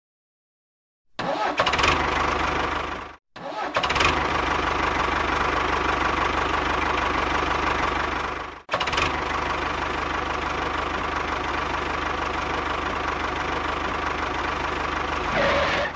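Small engine starting and running steadily, heard in three stretches separated by two sudden breaks to silence.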